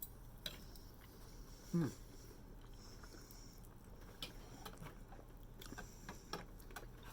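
Quiet eating: faint chewing and scattered small clicks, with a short falling 'mm' from a person about two seconds in.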